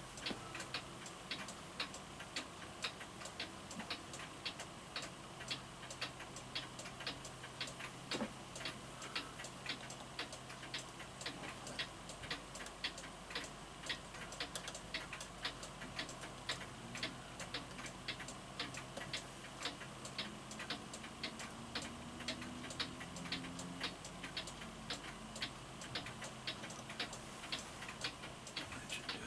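Florenz Kroeber mantel clock ticking steadily, an even tick-tock of its repaired movement running.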